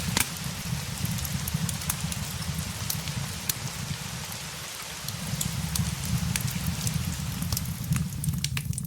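Steady rain on windows mixed with a crackling fireplace: a continuous hiss with scattered sharp pops and clicks over a low rumble that eases briefly about halfway through.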